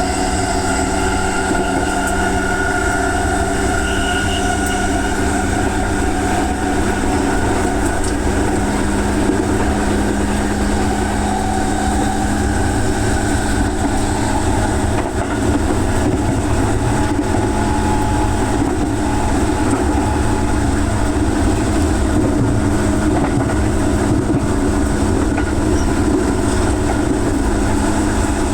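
An electric commuter train running at speed, heard from on board: a steady rumble of wheels on rail with a constant low hum throughout.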